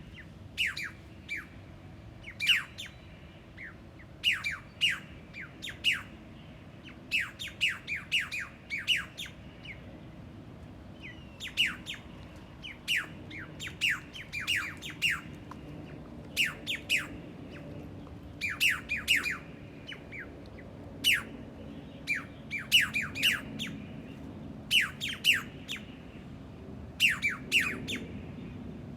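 A bird calling with short, sharp notes that sweep steeply down in pitch, given in quick runs of two to five and repeated every second or two.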